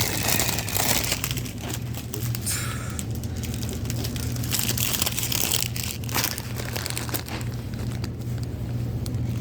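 Plastic snack packaging crinkling as it is handled, in several short bursts, over a steady low hum.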